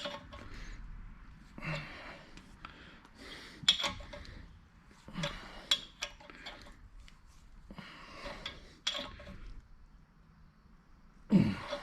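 Hand tool turning a steel thread insert down into a cast-iron engine block hole, metal clicking and clinking in short bursts every second or two.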